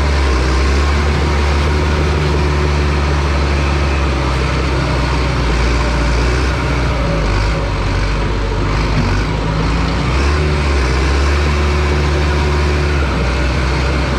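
Bulldozer's diesel engine running hard and steadily, its low note shifting a little around the middle.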